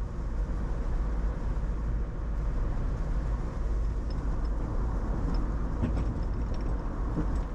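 Steady road and tyre noise with a low engine-and-road rumble, heard from inside a moving car at cruising speed.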